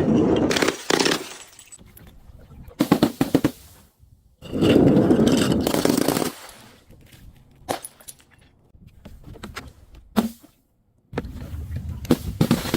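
Objects being crushed and broken: several bursts of crunching and rapid cracking, the longest lasting about two seconds near the middle, with scattered sharp cracks between them.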